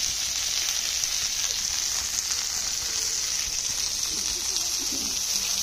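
Chicken pieces frying in hot oil in a pan, giving a steady, even sizzle.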